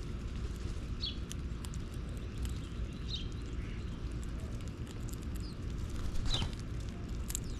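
Small birds giving short, high, falling chirps every second or two, over a steady low rumble and a few faint clicks.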